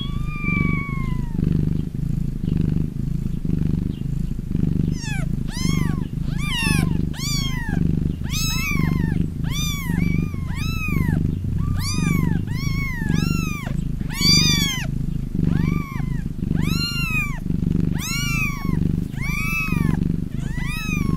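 A cat purring steadily in a slow pulsing rhythm. From about five seconds in, a run of short, high, rising-and-falling kitten mews comes over it, about two a second.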